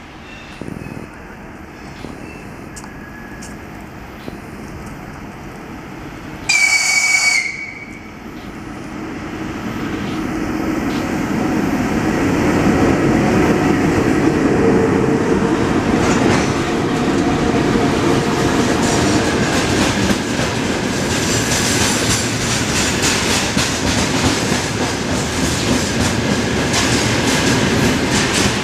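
VL11.8 electric locomotive and its freight train: a short, loud, high-pitched whistle signal about seven seconds in, then the rumble of the train swelling as it approaches and runs past close by. From about twenty seconds in, the wheels of the freight wagons clatter steadily over the rail joints.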